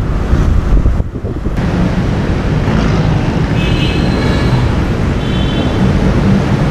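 Motorcycle riding in road traffic: steady engine and road rumble with heavy wind buffeting on the microphone. A brief high-pitched tone sounds about three and a half seconds in and again near five seconds.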